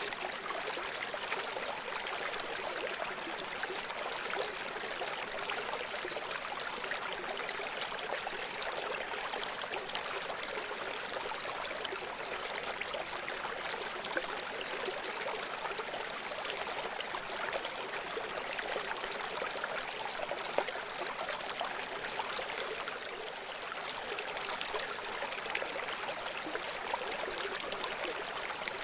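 Running stream: water flowing and splashing over stones in a steady, even rush with fine trickling detail.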